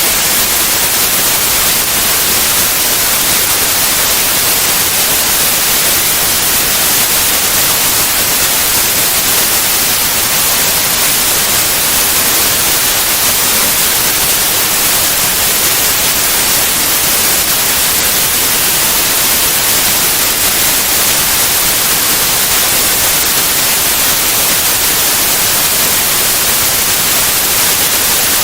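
Steady white noise: an even, unchanging hiss across all pitches, strongest in the treble.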